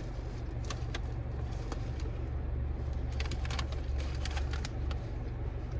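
Steady low hum of a car running, heard from inside the cabin, with scattered small clicks and crackles over it.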